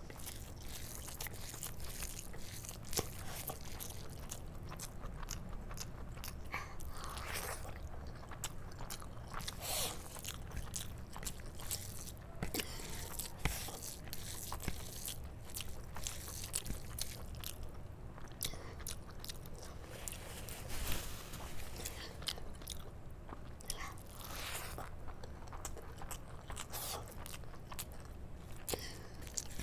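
Close-miked eating sounds: wet chewing and mouth clicks as handfuls of rice mixed with palak paneer are eaten by hand. A few longer, noisier swells stand out, about a quarter of the way in and again near the end.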